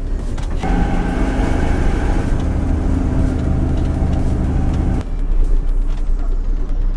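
A heavy vehicle's engine running steadily over a deep rumble, its pitched drone cutting off abruptly about five seconds in while the rumble carries on.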